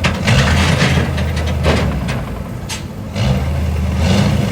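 Oilfield truck's engine running, its speed stepping up about a third of a second in and again about three seconds in, with knocks and rattles over it.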